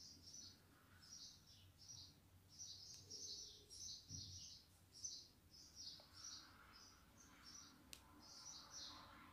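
Faint chirping of a small bird, short high chirps repeating about twice a second.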